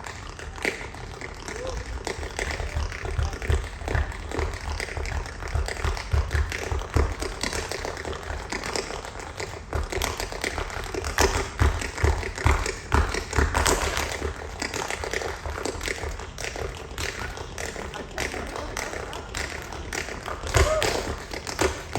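Tap dancers' shoes clicking and stomping on a stage in rapid, irregular rhythms, with heavy low thumps from stamping feet among the taps.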